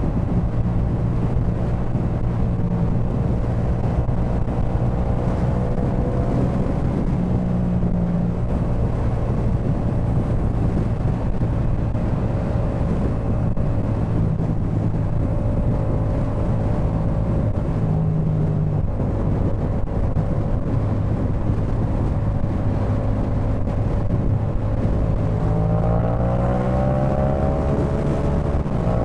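Yamaha MT-07's parallel-twin engine running through a Jeskap K4 full exhaust while riding, holding a steady engine speed for most of the time, then rising in pitch under acceleration near the end.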